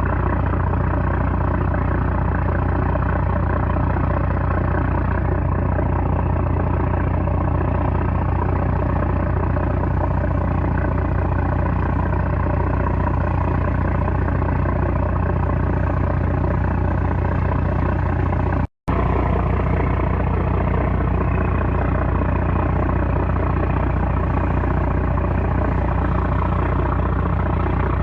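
The 960-horsepower trawler's diesel engine running steadily, a loud deep drone with a constant hum. The sound cuts out for a split second about two-thirds of the way through.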